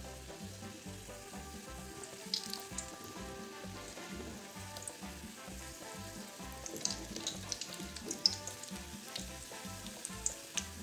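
Spoonfuls of yeast-raised dough frying in a pot of oil, sizzling with scattered sharp crackles and pops that grow thicker in the second half.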